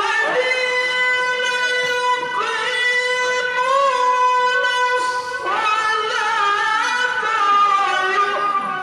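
A qari's voice in melodic Quran recitation, holding one long high note with a slight waver, then moving about five and a half seconds in to a new pitch with more ornamented turns.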